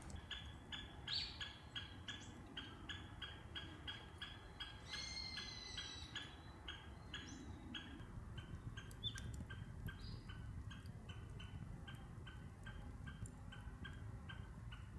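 Woodland ambience: a short call repeated evenly, about two and a half times a second, with separate bird calls over it, the clearest a warbling call about five seconds in.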